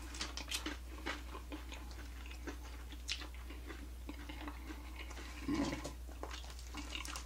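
Close-up chewing and small wet mouth clicks and crackles while eating fried quail, irregular and soft, with one louder mouth sound about five and a half seconds in.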